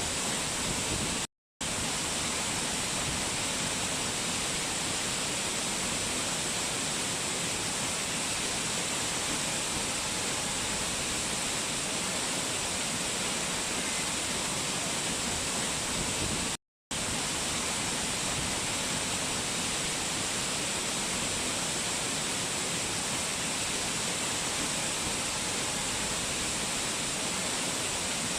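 Steady rushing water of a fast mountain stream or waterfall, an even hiss strongest in the treble. It cuts out for a split second twice, about a second and a half in and again a little past the middle.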